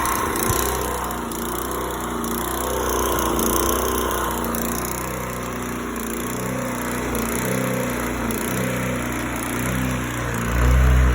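Small single-cylinder pressure-washer gas engine running steadily through a custom exhaust, with a brief louder surge near the end.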